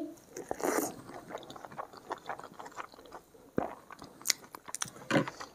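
Chewing a mouthful of hand-mixed rice and crumbled papad: soft crunches and many small wet mouth clicks.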